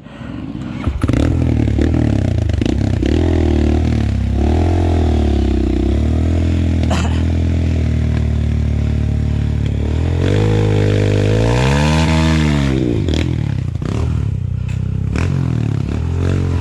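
Enduro dirt bike engine pulling away and riding on, revving up and down as the throttle is worked, with one long rev up and back down near the end. Occasional knocks and clatter are mixed in.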